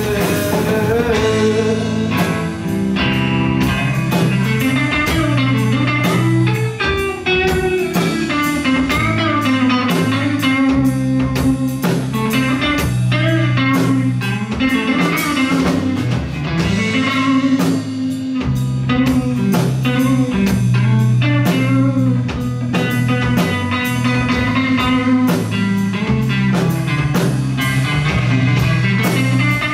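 Live rock band playing an instrumental break: electric guitar lines gliding in pitch over bass and a steady drum-kit beat.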